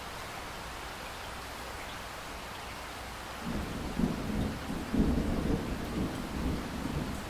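Steady rain hiss, then about halfway through a thunder roll breaks in and keeps rumbling, with sharper cracks a second or so apart.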